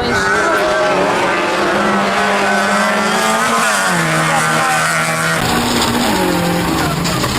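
Race car engine running at high revs, its pitch held and then stepping down about four seconds in, with another change in the sound a little past five seconds.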